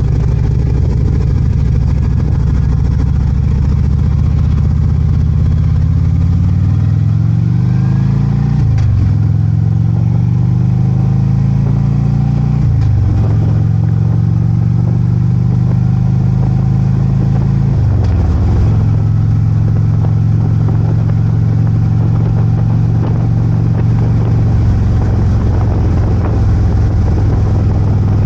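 Harley-Davidson Ultra Limited's V-twin engine under way, accelerating through the gears. The pitch climbs and drops at three upshifts, about a third of the way in, just before halfway and about two-thirds in, then holds steady at cruising speed.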